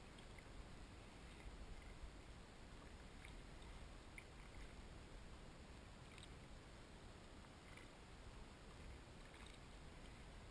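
Near silence: a faint steady wash of water around a kayak, with a few soft ticks scattered through it.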